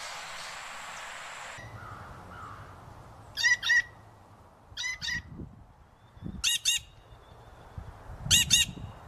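A bird giving short calls in quick pairs, four pairs about a second and a half apart, after a steady hiss of background ambience that cuts off about a second and a half in.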